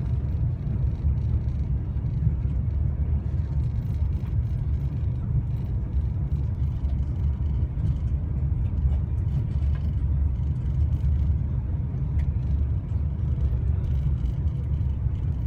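Steady deep rumble of an Italian high-speed train running at speed, heard from inside the carriage.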